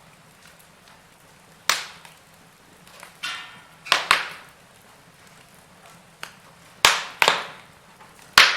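Wood fire crackling in a fireplace: scattered sharp pops and snaps, several seconds apart, with a brief hiss about three seconds in.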